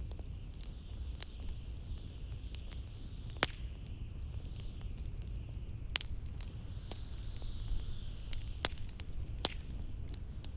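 Wood fire crackling in a fireplace with sharp, irregular pops, over the low rumble of blizzard wind and a faint whistle of wind that rises and falls.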